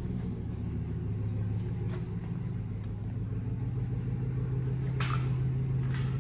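Small-block Chevy V8 idling steadily just after starting, with two sharp clicks near the end.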